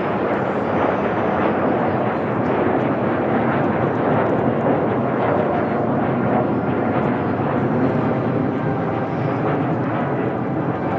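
Kawasaki T-4 jet trainers flying the display, their jet engines making a loud, steady rushing noise.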